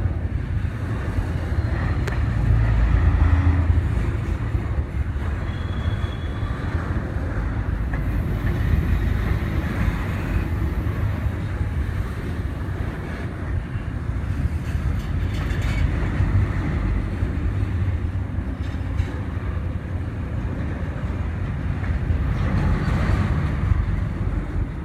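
A train rolling past, a steady low rumble of railcars on the track.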